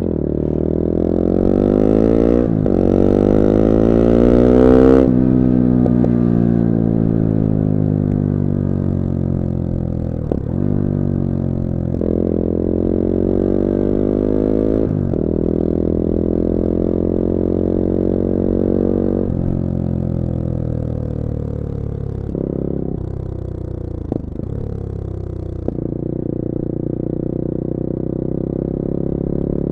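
Bullit Hero 250's CF Moto 250cc four-stroke motorcycle engine under way, revving up through a gear change in the first few seconds. The revs then fall away, with several short breaks in the engine note that come as the gears are changed.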